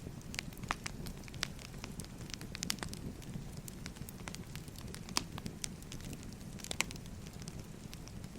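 Firewood burning in a fire: a steady low rumble with irregular crackles and sharp pops, a few louder pops about five and seven seconds in.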